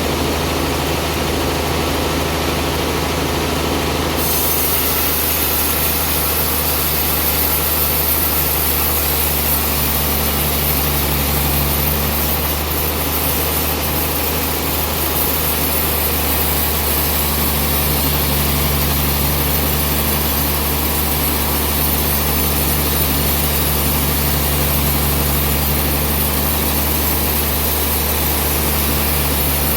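Sawmill running steadily, its engine drone under the saw cutting through a large trembesi (rain tree) log. A brighter, hissier cutting sound comes in about four seconds in and holds.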